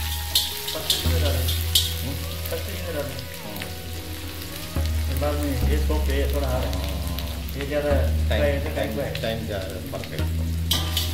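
Chopped ginger sizzling in hot vegetable oil in a wok, stirred with a spoon, over background music with low held notes.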